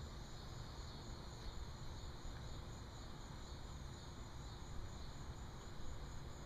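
Steady, faint high-pitched insect chorus, like crickets, over a low rumble.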